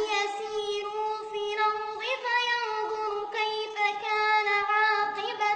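A child's voice reciting the Quran in melodic tarteel, drawing out long, high, ornamented notes with brief breaks.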